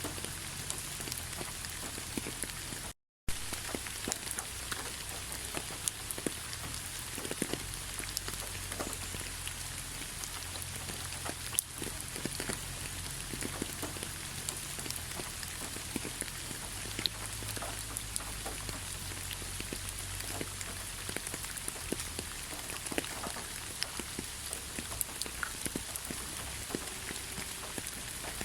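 Steady rain: an even hiss with many separate drop ticks scattered through it. The sound cuts out to silence for a moment about three seconds in.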